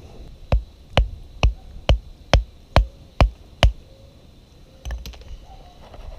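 Eight sharp knocks struck in a steady rhythm, about two a second, then one softer thump about five seconds in.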